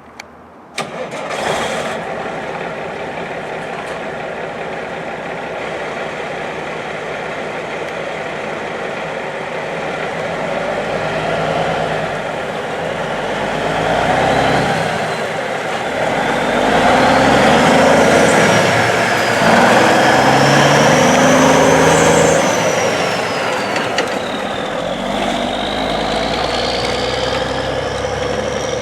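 1991 Freightliner truck's diesel engine starting up about a second in, then idling steadily. In the second half it is revved several times, with a high whine rising and falling along with the revs.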